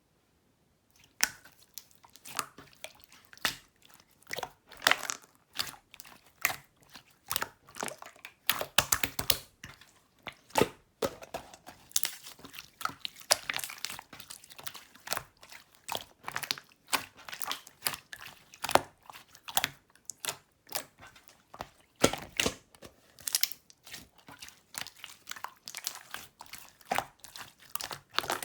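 Sherbet slime being squeezed and pressed by hand, giving an irregular stream of crunchy crackles and small pops.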